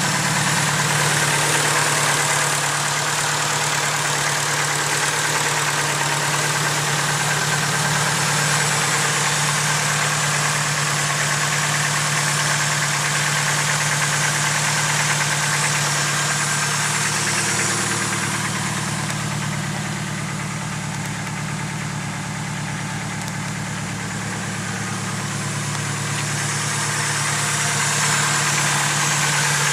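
Turbocharged Nissan KA24DE four-cylinder engine idling steadily with a fast, light lifter tick, a fault appearing a few months after a full rebuild. The sound is a little quieter for several seconds in the middle.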